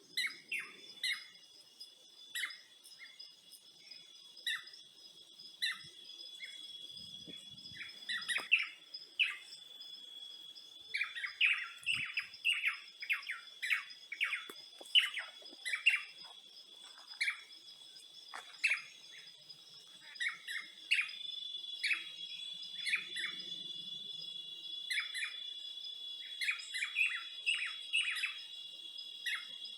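Birds chirping: many short, quick chirps repeated irregularly, thickest in the middle and again near the end. Underneath, a steady high insect trill runs throughout and gets a little louder about two-thirds of the way in.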